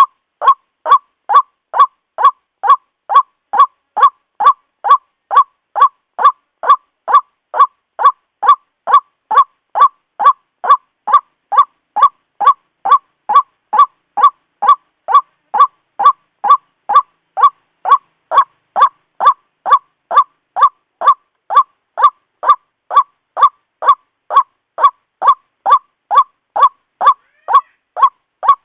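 White-breasted waterhen call played as a recorded bird lure. It is one short nasal note repeated on and on at an even pace, about two a second, each note the same loudness.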